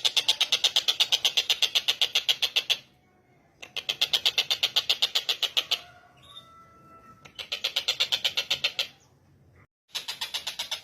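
Tengkek buto calling: bouts of rapid, evenly repeated chattering notes, about eight a second, each bout lasting two to three seconds, with short pauses between bouts.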